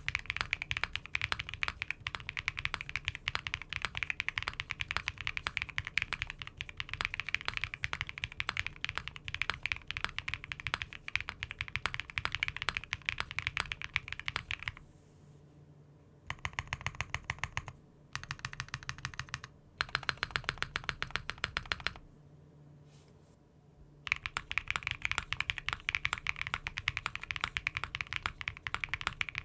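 Fast typing on a mechanical keyboard fitted with Cherry-profile keycaps: a dense, even stream of keystroke clacks. It breaks off twice for a second or two about halfway through, with short bursts of typing in between.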